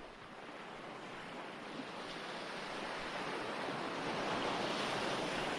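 Ocean surf washing in: a steady hiss of waves that slowly swells, loudest about four to five seconds in.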